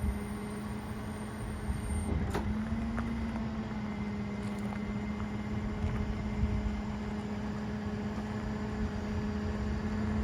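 2008 Ford F450 bucket truck running, a steady hum with one even tone throughout, and a single sharp click about two seconds in.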